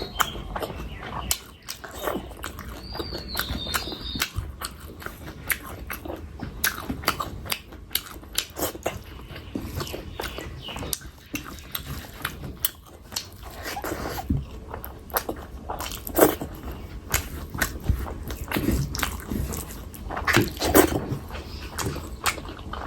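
Close-miked eating of rice and fish curry: wet chewing and smacking, with many sharp mouth clicks.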